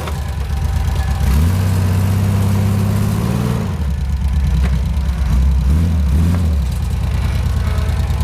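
Off-road 4x4's engine revving under load: the revs climb about a second in, hold high, drop at about three and a half seconds, then rise and fall unevenly.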